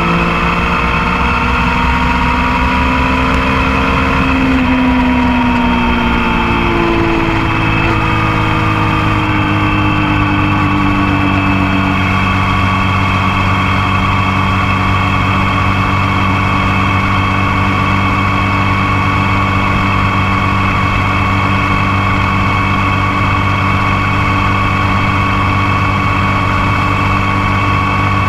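Motorcycle engine running while under way, heard close up from the passenger foot peg. Its pitch rises and falls over the first ten seconds or so with changes of speed, then holds steady.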